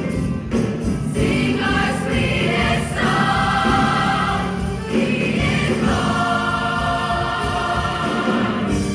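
School choir singing in harmony, holding long chords; a final held chord stops near the end as the piece closes.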